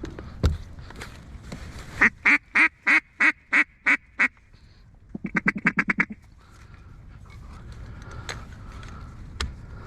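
Mallard duck call blown close by: a run of about eight loud, evenly spaced quacks, then a quick burst of about ten short notes. A knock about half a second in.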